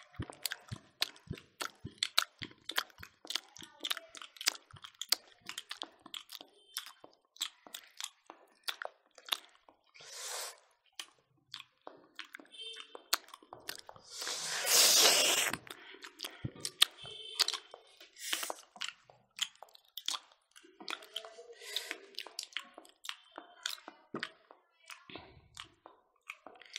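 People chewing and smacking their lips as they eat smoked pork and rice with their hands: a rapid, irregular run of wet mouth clicks, with a louder noise lasting over a second about halfway through.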